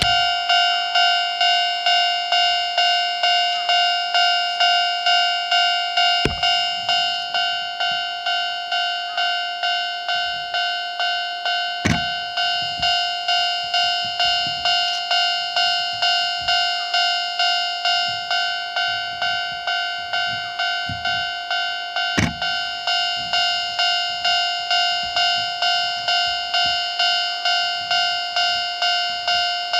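Japanese railway level-crossing warning bell ringing steadily, about two strikes a second, each a bright electronic ding that dies away, with a few sharp clicks in between.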